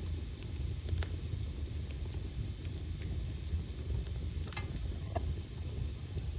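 Logs burning in a fireplace: a steady low rumble of the fire with scattered sharp crackles and pops, a few seconds apart and irregular.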